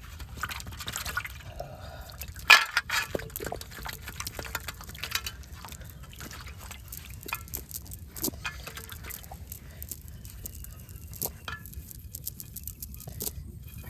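Water splashing and dripping in scattered small, irregular splashes, with the loudest splash about two and a half seconds in.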